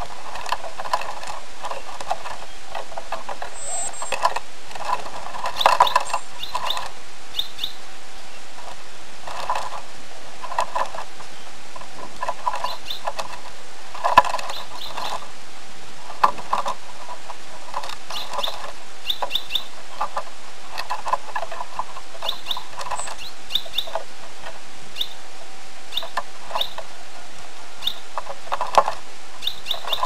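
Small birds chirping: short, high calls in quick pairs and triplets, scattered irregularly and coming and going.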